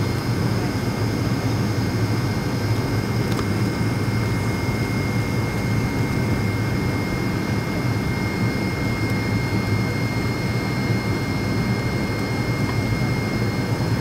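Jet airliner engines and airflow heard from inside the passenger cabin: a steady drone and rush with a few thin, high steady whine tones over it.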